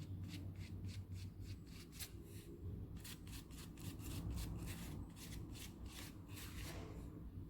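Paintbrush rubbing paint onto a cardboard toilet-paper roll: quick, faint scratchy strokes, about three or four a second, which stop shortly before the end.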